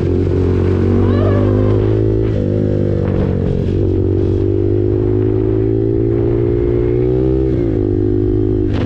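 KTM RC 390's single-cylinder engine through an SC Project exhaust, running under way with its note rising slowly and stepping in pitch twice, about two and a half seconds in and near the end, with wind noise over the microphone.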